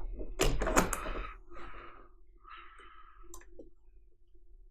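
Threaded rods clicking and knocking against acrylic frame plates, with several sharp clicks in the first second, then two short scraping slides as the rods are pushed through the holes, and a few light ticks after.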